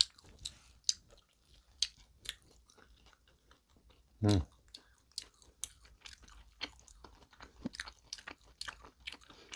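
Close-up chewing of a fried, crisp-crusted bread filled with bulgogi: sharp little crunches and wet mouth clicks at an uneven pace. About four seconds in there is a brief hummed "mm".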